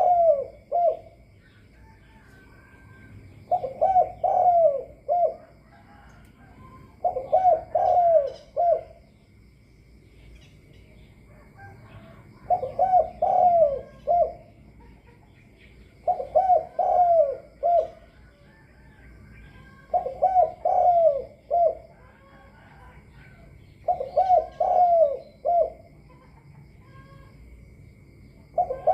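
A decoy dove cooing: a phrase of several quick coos about every four seconds, seven phrases in all.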